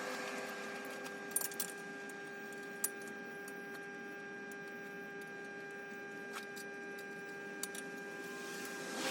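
A steady machine hum with several overtones, broken by a few light clicks and taps.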